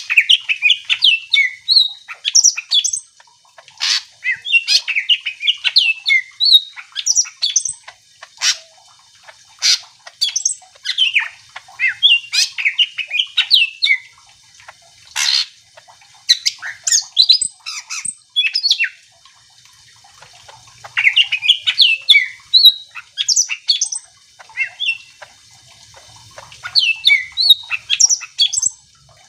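Green leafbird (cucak ijo) singing in full voice: rapid, varied runs of high chirps and whistles in bursts, broken by short pauses, with a few sharp, piercing notes between them.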